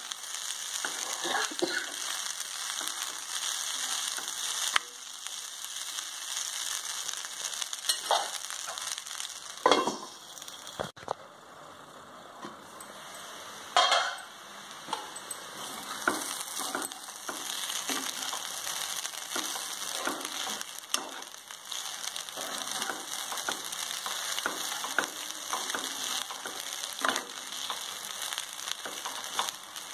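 Tomato rice sizzling in a hot pan while a spatula stirs and scrapes through it: a steady high hiss under frequent short scraping clicks, with a few louder knocks against the pan about ten and fourteen seconds in, and the stirring easing off briefly between them.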